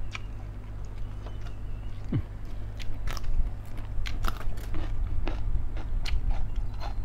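A person chewing and crunching food close to the microphone, biting into a raw green vegetable. Many short, sharp crunches come thickest from about three seconds in.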